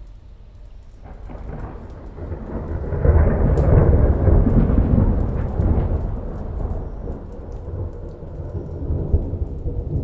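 A long roll of thunder that builds about a second in, peaks for a few seconds, then slowly rumbles away, over the steady patter of rain.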